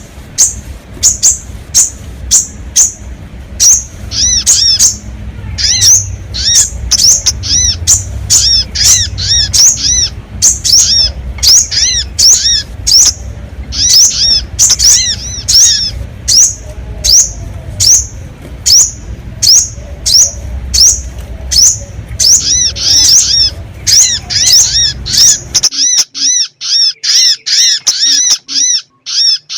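Sogon bird-lure call: sharp, high chirps repeated about once or twice a second, each a short downward-curving note. A low, steady hum runs under the calls and cuts off abruptly about 26 seconds in.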